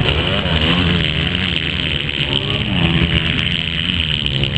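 Several motocross motorcycle engines running on the track, their pitch rising and falling as the riders rev and back off, the sounds overlapping.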